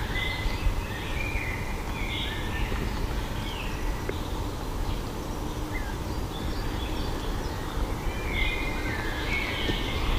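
Birds chirping and calling in short scattered phrases, more busily near the end, over a steady low outdoor rumble.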